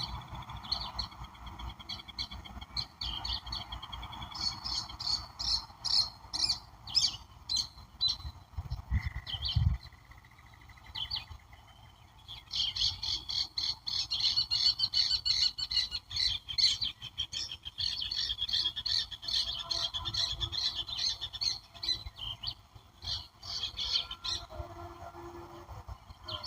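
Several songbirds chirping and calling together, with fast runs of repeated high chirps that grow densest in the second half. A brief low rumble comes about nine seconds in.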